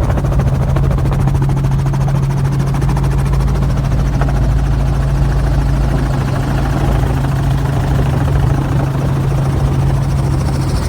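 A helicopter running steadily: a loud, constant drone of rotor and engine with an unchanging low tone.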